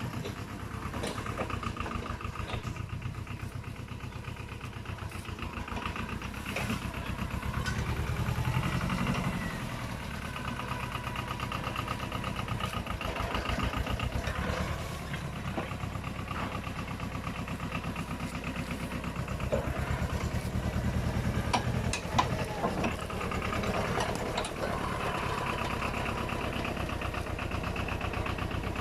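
Yanmar YM2000 tractor's small diesel engine running with a fast, even chugging, growing louder and softer a few times. A few sharp clacks come past the two-thirds mark.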